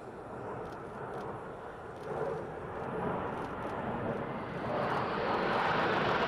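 Jet fighter engines of an aerobatic display team passing overhead: a broad roar that builds about two seconds in and grows louder and brighter near the end as the aircraft come closer.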